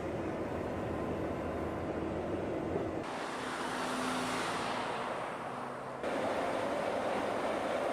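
Steady vehicle noise that changes abruptly about three and six seconds in, with a hiss that swells and fades in the middle part.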